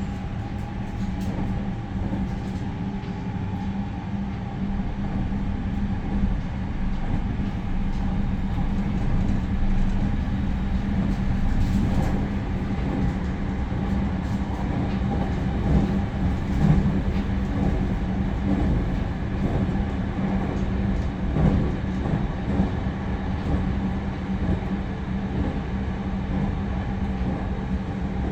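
Cabin running noise of a JR Central 315 series electric train: a steady rumble of wheels on rail with a constant low hum underneath.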